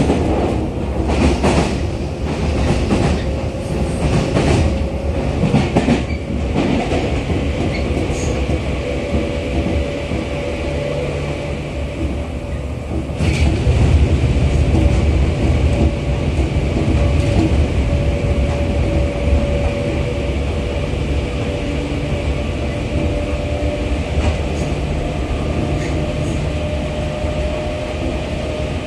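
Running noise of a JR 211 series electric train heard inside its motor car. A steady rumble of wheels on rail is joined by a faint motor whine that slowly rises in pitch, with several sharp clacks in the first few seconds.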